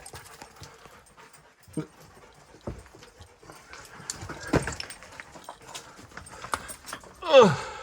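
Dogs moving about in a small rock cave: scattered scuffs and knocks, then a short whine falling in pitch near the end.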